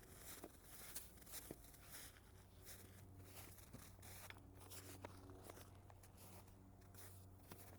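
Faint footsteps crunching in snow at a walking pace, over a steady low hum.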